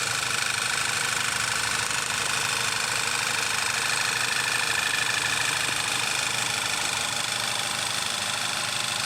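Volkswagen Tiguan engine running steadily at idle, with a faint high whine over the engine note.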